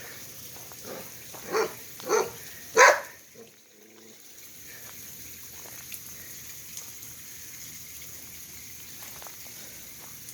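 A dog barking three times in quick succession, the third bark the loudest, over the steady hiss of a lawn sprinkler.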